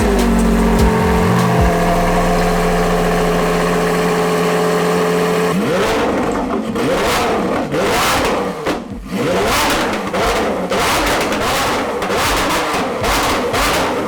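Car engine held at a steady speed, then revved up and down repeatedly from about six seconds in.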